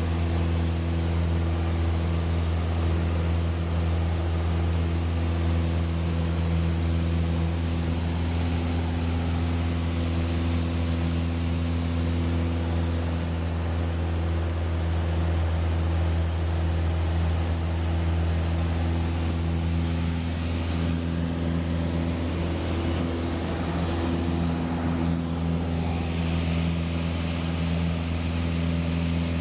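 Light training airplane's piston engine and propeller droning steadily at constant power, an even low hum with a stack of overtones.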